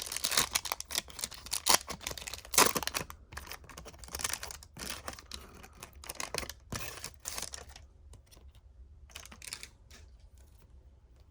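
Trading-card pack being torn open, its wrapper rustling in quick bursts, followed by lighter clicks and rustles of the cards being handled. The handling thins out after about eight seconds.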